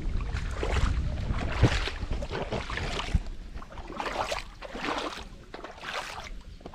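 Footsteps squelching through soft, wet riverbank mud, a noisy burst with each step at a walking pace, with wind rumbling on the microphone in the first part.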